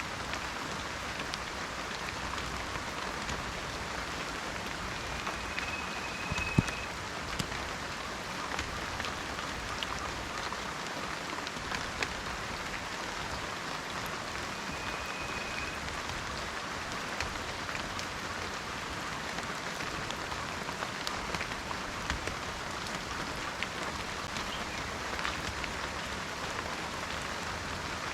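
Steady rain falling in a forest, a dense hiss with scattered louder drops and one sharper tick about six and a half seconds in. A faint, short, high whistle sounds twice.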